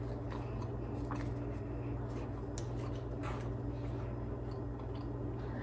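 Soft chewing and small mouth clicks of a person eating a banana muffin, over a steady low hum.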